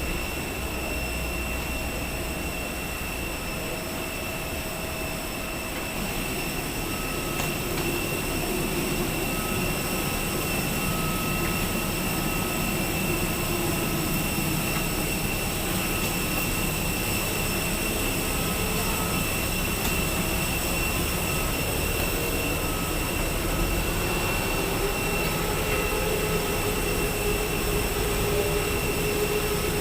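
Steady hum of a jet airliner's cabin, with a fixed high whine over the air noise; it grows a little louder about seven seconds in.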